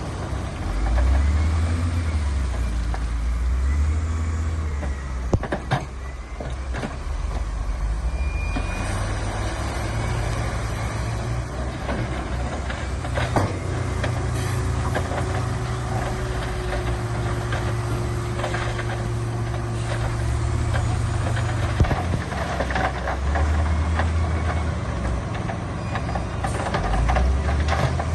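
Heavy diesel earthmoving machinery running, its low engine drone rising and falling as it works under load, with a few sharp knocks along the way.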